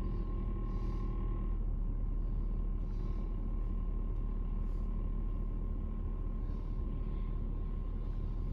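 Cab noise of a Chevrolet pickup truck being driven: a steady low engine and road rumble, with a faint steady high whine.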